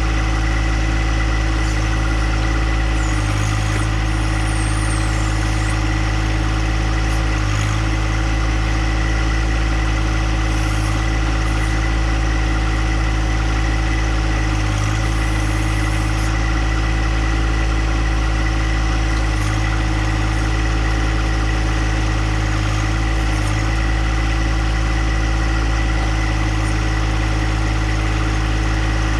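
Compact John Deere tractor engine running steadily at a constant speed.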